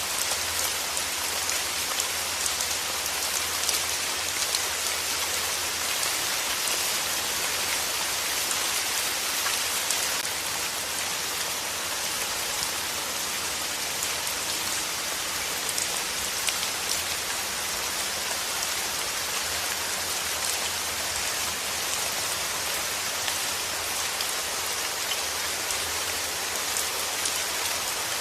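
Steady rain falling on a surface, a dense even hiss flecked with the ticks of single drops.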